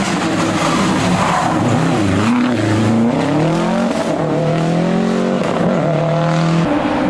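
A historic rally car's engine at high revs: the pitch drops about two seconds in as it comes off the throttle, then climbs hard under acceleration, holds, and falls again with a gear change near the end.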